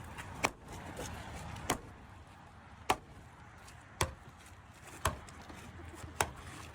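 Six sharp knocks, evenly spaced a little over a second apart.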